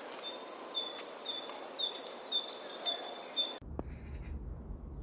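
A songbird singing a repeated two-note phrase, a high note followed by a lower one, over a steady outdoor hiss. About three and a half seconds in, the birdsong cuts off abruptly and gives way to a low rumble.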